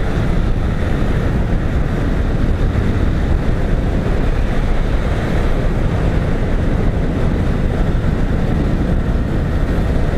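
Steady rush of wind on the microphone of a motorcycle riding at speed, with the engine running underneath.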